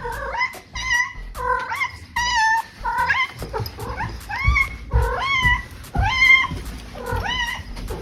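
A domestic cat meowing over and over in a rapid string of short calls, each bending up and down in pitch.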